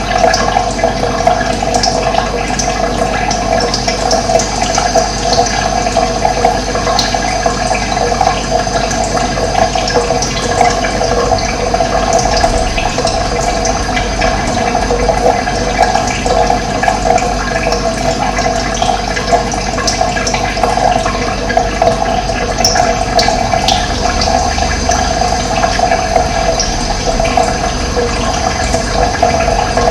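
Running water flowing steadily, with a few brief high bird chirps.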